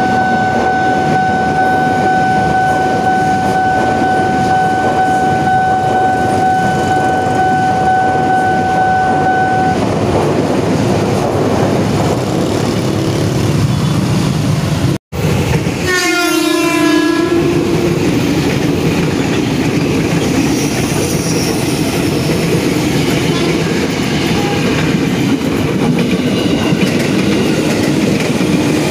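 KRL commuter electric train running past on the rails with a steady clatter, and a long steady warning tone held for about the first ten seconds. About halfway through the sound cuts off abruptly, then a train is heard running close by, with a brief falling whine just after the cut.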